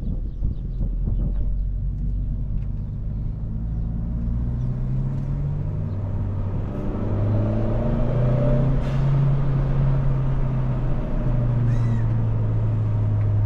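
Kia Forte GT's turbocharged four-cylinder engine running while the car is driven at low revs, its pitch rising about halfway through as the car picks up a little speed, then holding steady.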